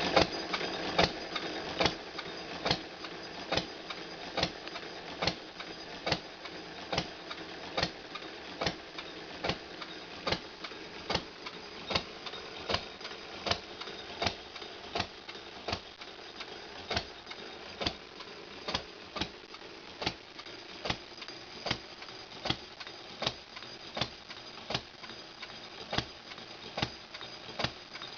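Model Aermotor 8-cycle gas engine running on points and buzz-coil ignition, making sharp, evenly spaced beats a little more than once a second.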